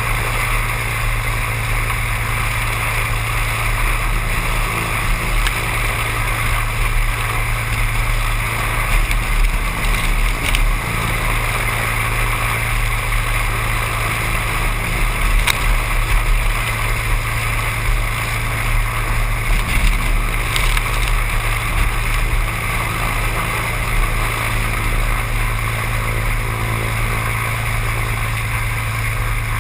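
Seaplane's engine and propeller running with a steady, unbroken drone.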